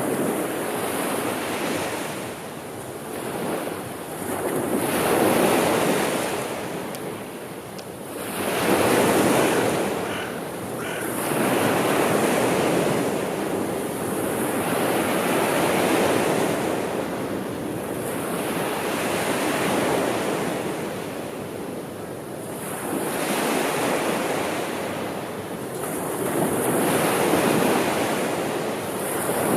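Sea waves washing onto the shore, the surf swelling and fading every three to four seconds.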